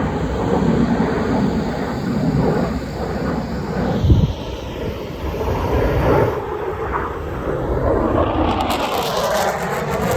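Pitts Special aerobatic biplane's piston engine and propeller flying overhead, the engine note sweeping up and down in pitch as it manoeuvres, with a thump about four seconds in.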